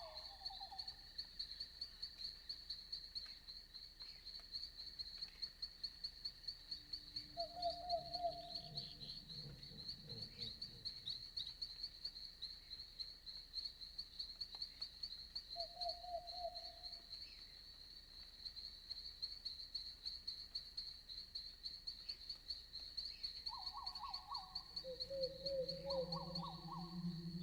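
Night-time insect chorus: a faint, steady, fast-pulsing high chirping. Short lower trilled animal calls come every several seconds, and a low drawn-out hum sets in near the end.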